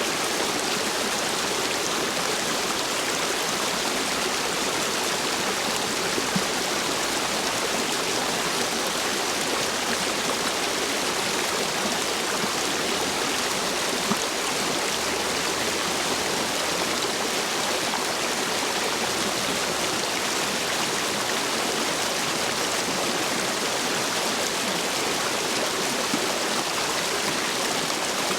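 Stream water rushing steadily over and between stepping stones, a constant even wash of water. The stream is running full after heavy rain.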